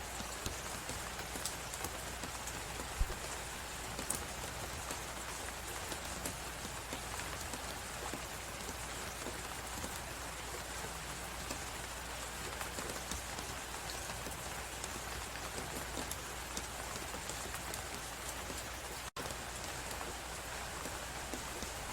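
Crackling fireplace over a steady rushing hiss of blizzard wind: scattered sharp pops and snaps throughout, one louder pop about three seconds in. The whole sound drops out for an instant near the end.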